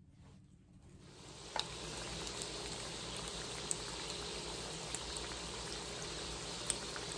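Chicken wings frying in hot oil in a skillet: a steady sizzle that sets in about a second and a half in, with occasional sharp pops of spattering oil.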